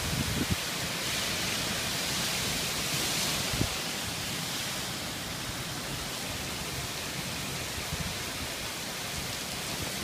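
Heavy storm downpour: a steady, dense hiss of driving rain, with a few brief low thumps near the start and again about three and a half seconds in.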